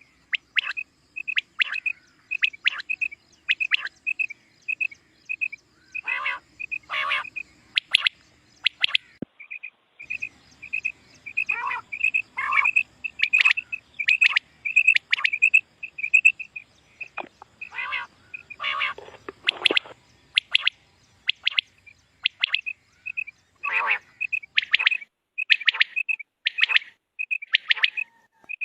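Common quail calling. A run of short high notes comes about two a second, broken every few seconds by a cluster of louder notes that sweep down in pitch.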